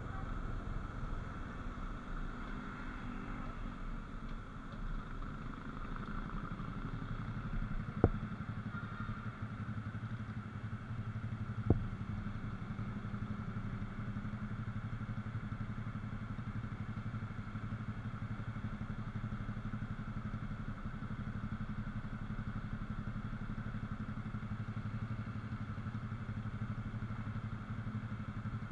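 Motorcycle engine running as the bike rolls to a stop, then idling steadily. Two sharp knocks stand out, one about eight seconds in and one about four seconds later.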